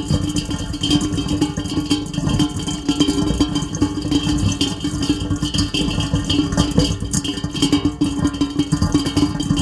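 Heavy rain falling steadily, a dense patter of countless drops, with a steady low hum underneath.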